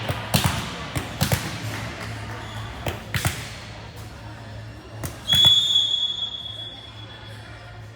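A volleyball being struck a few times with sharp smacks, then a referee's whistle blown once in a long steady blast about five seconds in, likely ending the rally.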